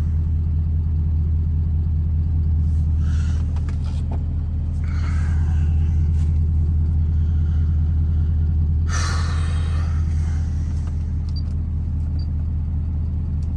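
Lifted diesel pickup truck engine running steadily at a constant speed, a deep low drone. Brief hissing noises come and go over it a few times, the longest about two-thirds of the way in.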